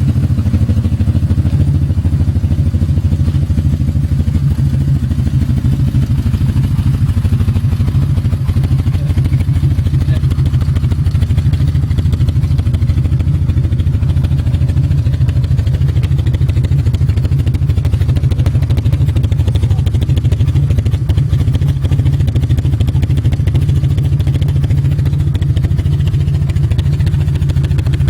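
BMW R1200C's air/oil-cooled boxer twin running steadily through an Edhaust aftermarket exhaust, a deep, even exhaust note with no revving.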